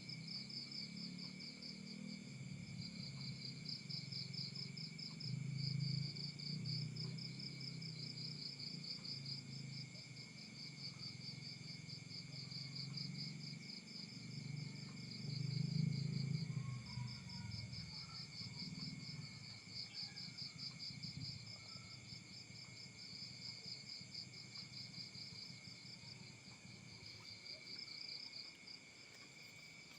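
Crickets chirping in a fast, even pulsing trill, over a steady high insect whine. A low rumble comes and goes underneath, loudest twice, about six and sixteen seconds in.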